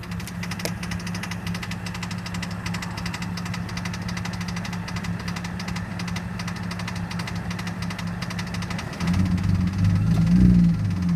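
BMW E46 330i ZHP's supercharged 3.0-litre inline-six, fitted with an ESS TS1 supercharger kit, idling with a fast, steady rattling or knocking tick of uncertain cause. Near the end the engine is revved briefly and gets louder, then drops back to idle.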